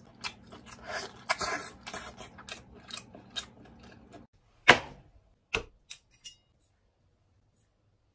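Close-up eating sounds of someone chewing braised oxtail: a quick run of wet, smacking clicks over a low steady hum for about four seconds, then a few sharp, louder clicks.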